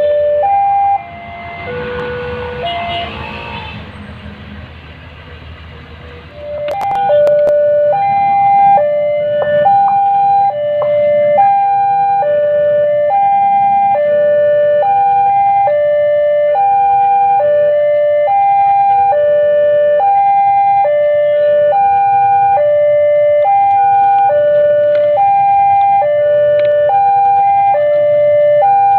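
Electronic warning signal repeating a short three-note pattern, one cycle about every two seconds. It comes in loud and steady about six and a half seconds in, after a quieter stretch mixed with a noisy rumble.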